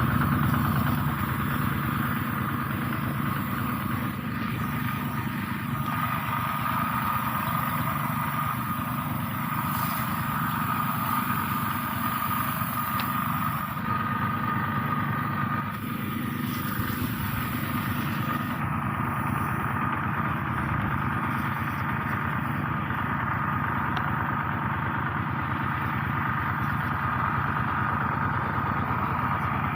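Small petrol engine of a motorized herbicide sprayer running steadily at a constant speed.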